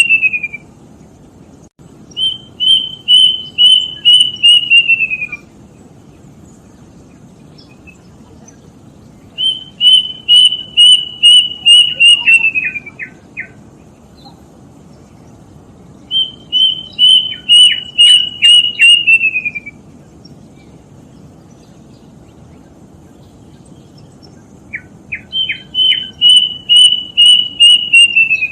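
Kedasih cuckoo singing: runs of about seven or eight clear whistled notes that hold steady and then slide down in pitch at the end. Four full runs come about every seven seconds. Short lower falling notes come near the end of some runs, over a steady low hiss.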